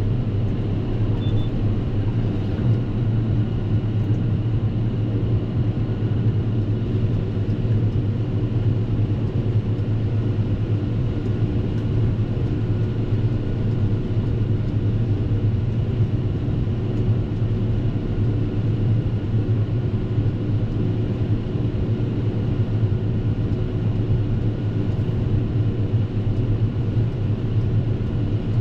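Fendt 724 tractor's six-cylinder diesel engine running steadily under load while driving a Pöttinger front mower and Krone triple rear mowers through grass, a constant deep drone with a steady hum from the mower drives.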